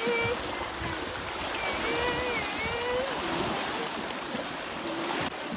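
Steady rushing and lapping of lake water, with faint wavering high tones coming and going over it.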